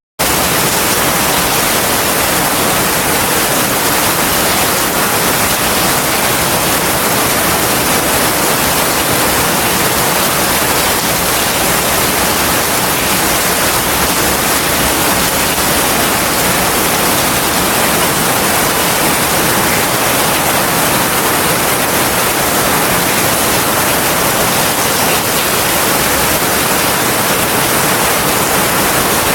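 Heavy rain falling as a steady, dense hiss with no thunder. It cuts out for an instant at the very start, like a loop splice.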